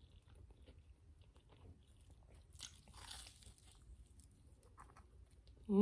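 Close-miked eating sounds: quiet chewing with small wet clicks, and a soft crunch a little over two and a half seconds in.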